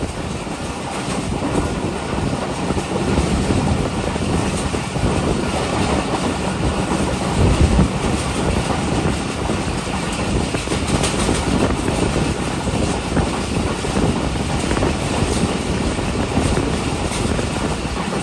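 A moving passenger train's wheels running on the rails, heard from an open coach door: a steady rumble with faint clicks, and a louder low thump about seven and a half seconds in.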